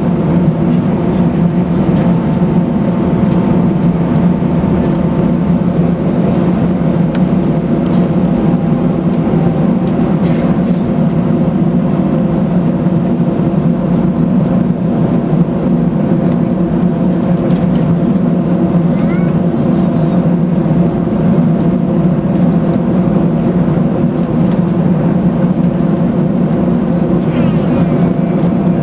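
Steady engine drone and rushing noise inside the cabin of an Airbus A319 airliner, heard from a seat behind the wing, with no rise or fall in pitch.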